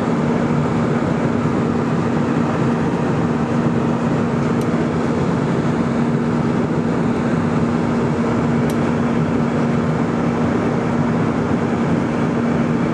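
Airbus A320 in flight, its jet engines and rushing air making a steady, unchanging drone with a constant low hum.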